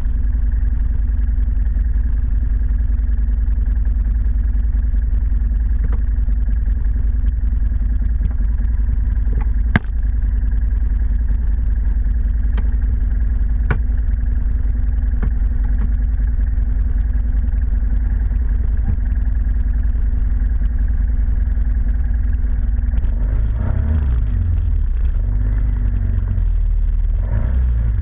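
ATV engine running steadily under way, with a sharp knock about ten seconds in and a couple of lighter clicks after it; the engine note becomes uneven, rising and falling, over the last few seconds.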